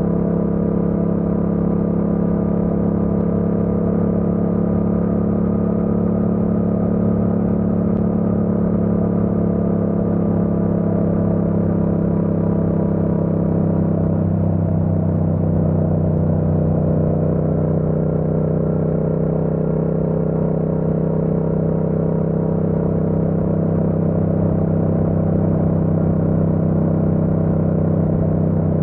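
Yamaha MT-07's parallel-twin engine pulling at steady, even revs while riding, with the note sagging a little in pitch about halfway through.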